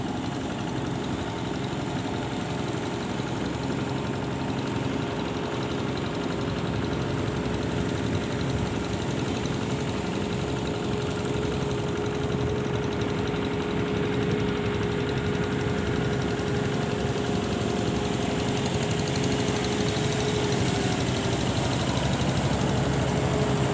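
An engine running steadily with a constant humming tone, slowly growing a little louder.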